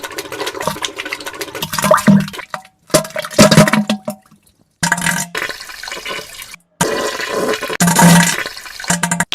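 A run of edited wet diarrhea and fart sound-effect clips: watery splashing noise with short, low buzzy tones, broken by abrupt cuts between clips.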